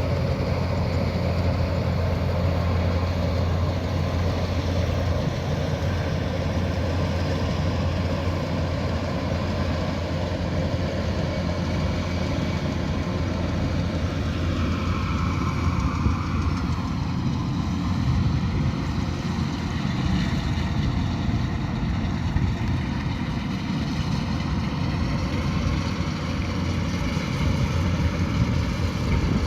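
Kubota DC108X combine harvester running steadily, a diesel engine hum with a low drone; about halfway through its pitch dips and then holds at a slightly lower level.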